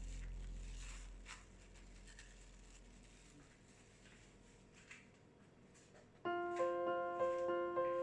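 A low hum fades away under a few faint clicks, then piano music starts about six seconds in, playing a simple melody note by note.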